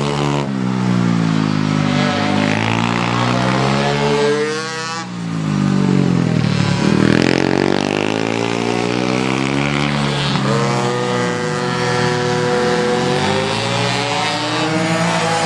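Pit bike engine being ridden hard, its revs climbing and falling again and again as the throttle is worked, with a brief drop-off about five seconds in.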